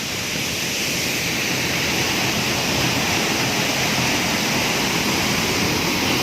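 Waterfall pouring, a steady rushing noise that grows slowly louder.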